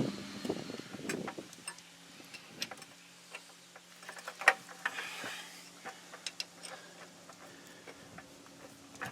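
Scattered light metallic clicks and taps of a hand wrench working on brake caliper bolts, irregular and fairly quiet, over a faint steady hum.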